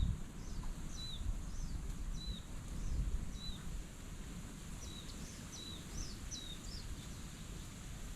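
A small bird chirping: short high notes that drop in pitch, about one a second, then a quicker run of several calls around five to six seconds in, over a low rumble of outdoor noise.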